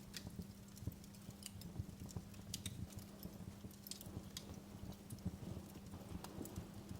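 Wood fire in a fireplace crackling, with irregular sharp pops and snaps scattered over a faint steady low hum.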